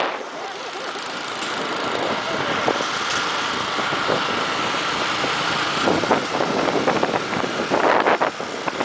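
Motorcycle engine running steadily, with a brief jumble of louder, broken sounds near the end.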